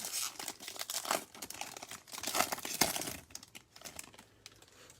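A trading card pack's foil wrapper being torn open and crinkled, as a crackling rustle that dies down over the last second or so.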